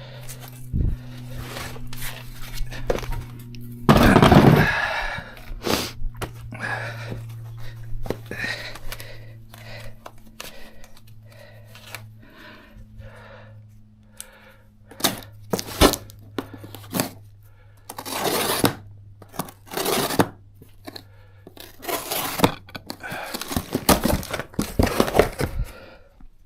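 Hand tools knocking and scraping on metal brake parts during a front brake job, in scattered strokes with a loud burst about four seconds in and heavier scraping near the end. A steady low hum runs underneath and stops a few seconds before the end.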